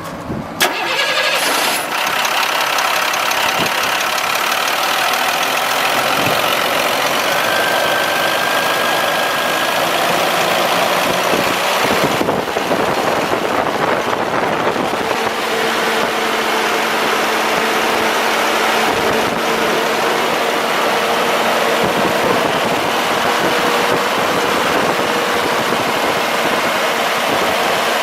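International DT466E diesel engine starting about a second in, then idling steadily.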